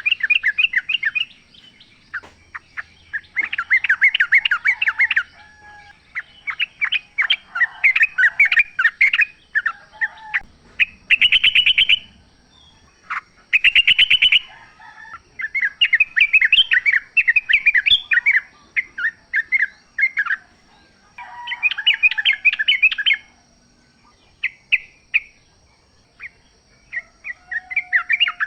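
Yellow-vented bulbul (trucukan) singing: bursts of rapid, bubbly chattering notes, repeated again and again with short pauses between phrases. A faint steady high tone runs underneath.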